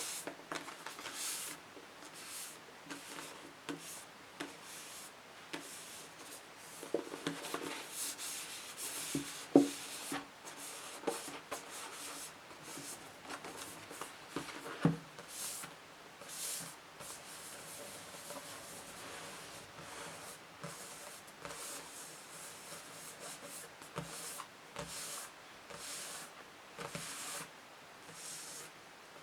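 Scratching and rubbing on books in a string of short, uneven strokes, with a few sharper taps, the loudest about a third and about halfway through.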